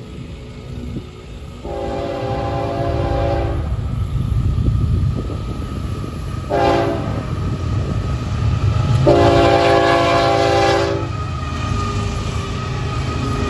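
Florida East Coast freight train's locomotive air horn sounding a long blast, a short one and another long one, the pattern of a grade-crossing signal, over the steady rumble of the passing diesel locomotives.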